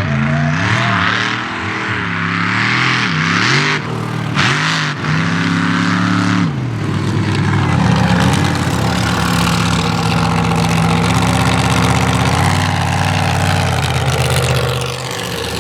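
Big mega mud truck engine revving hard, its pitch rising and falling again and again under a loud rushing noise. About six seconds in, the rushing drops away and the engine settles to a steadier note.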